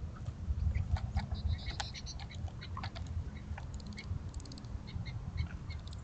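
A small bird pecking and shuffling on a wooden seed tray close to the microphone: scattered light taps and clicks, a few brief high chirps, and a quick run of ticks a little before the end, over a steady low rumble.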